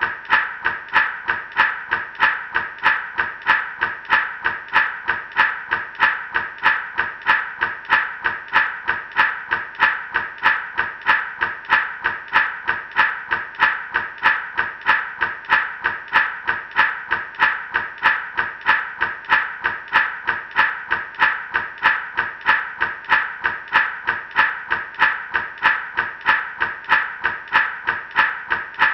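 Gourd rattle shaken in a steady, even rhythm, about two shakes a second.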